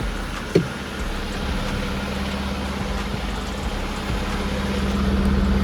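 Diesel engine of a 2023 Western Star dump truck idling steadily with a low hum. A brief sharp sound comes about half a second in.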